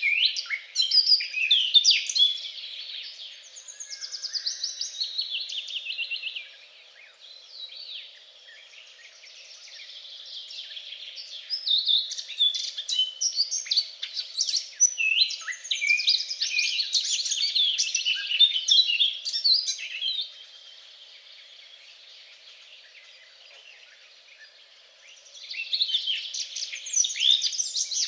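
Songbirds singing, a busy overlap of rapid high chirps and trills that comes in loud spells and twice drops to a quieter twittering.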